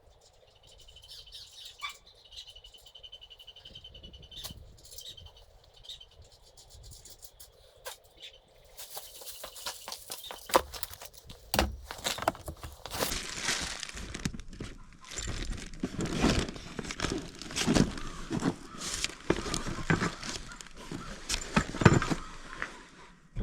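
Tools and hardware being handled and shifted about, a busy run of clattering knocks and rattles from about nine seconds in. Before it, a faint high trill-like chirping comes and goes.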